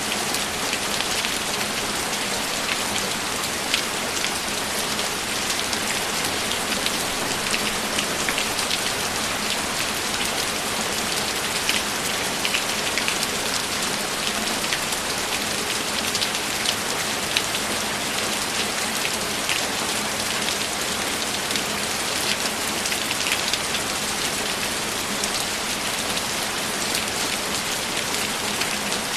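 Steady, even rainfall, a continuous hiss of rain with many separate drop ticks scattered through it.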